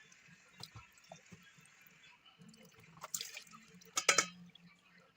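Water dripping and trickling out of a front-loading washing machine's opened drain-pump filter into a container, with two louder noises about three and four seconds in.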